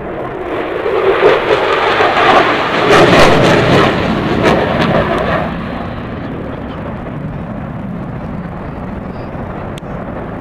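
An airshow aircraft making a pass: its engine noise swells, peaks about three seconds in with some crackle, and fades away by about five and a half seconds, leaving a steady background rumble.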